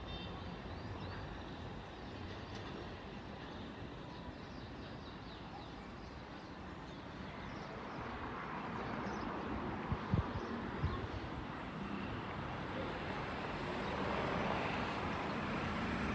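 Freight train of empty boxcars rolling past: a steady rumbling rush of wheels on rail that grows louder, with a few sharp thumps about ten seconds in.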